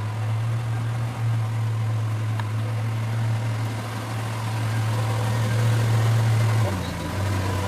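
A vehicle engine idling with a steady low hum; the hum drops off briefly near the end, then picks up again.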